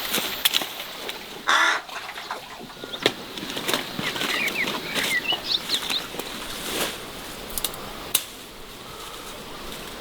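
Birds chirping in a cluster of short quick calls around four to five seconds in, among scattered clicks and knocks and a brief louder noise burst near two seconds.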